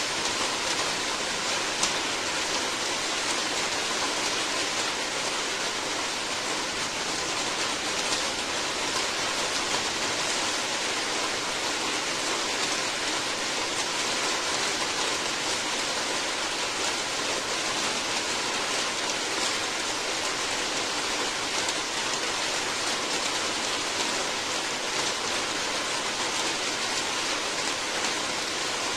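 Steady, even rain falling, a continuous hiss with faint scattered drop ticks.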